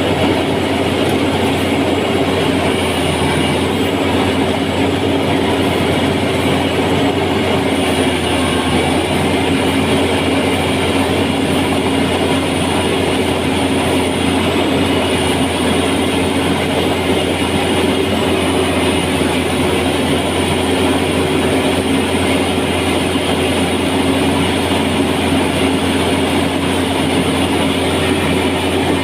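An engine running steadily at constant speed, with a continuous mechanical clatter.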